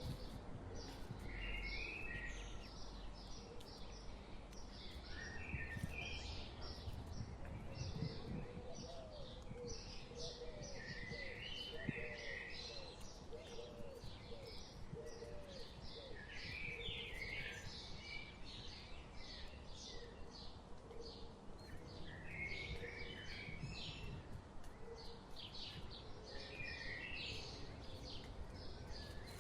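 Songbirds chirping and singing continuously in short, rapid phrases, with a run of short, low calls near the middle.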